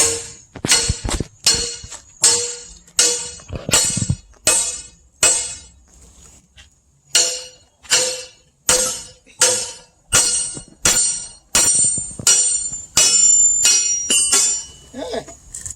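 Sledgehammer striking a steel wedge driven into a log, about two ringing metallic blows a second, with a short pause partway through.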